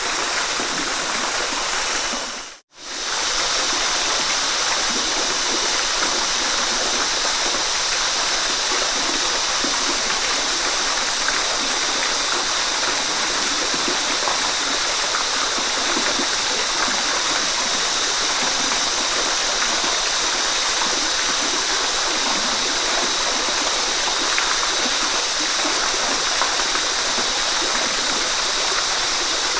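Waterfall: a steady rush of falling water, bright and hissy. It drops out to near silence for a moment about two and a half seconds in, then carries on unchanged.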